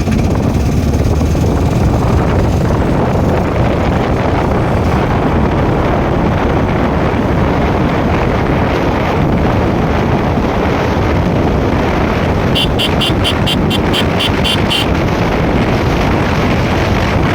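Motorcycle on the move: steady wind rush on the microphone over the bike's engine noise. Late on, a quick run of about ten short high beeps lasts about two seconds.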